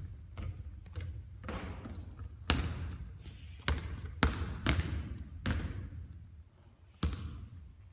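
Basketball bouncing on a hard court: about eight separate, irregularly spaced bounces, the louder ones followed by a ringing echo.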